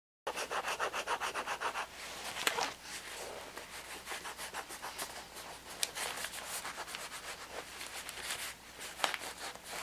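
Rapid scraping strokes, about nine a second for the first couple of seconds, then irregular rustling with a few sharp clicks.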